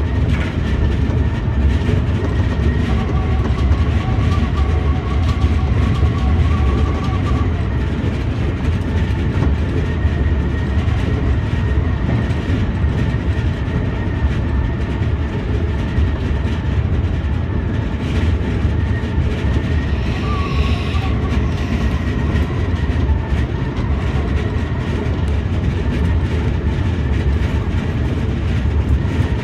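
Senboku Rapid Railway 7020 series electric train running at speed, heard from inside the cab: a steady rumble of wheels on rail with faint steady tones above it.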